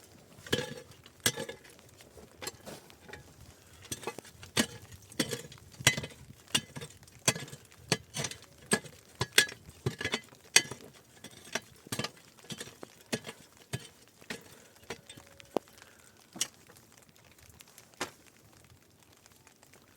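Irregular series of sharp clicks and knocks, hard objects striking, about one or two a second.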